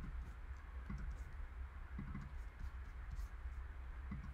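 A few faint soft clicks, roughly a second apart, over a low steady hum.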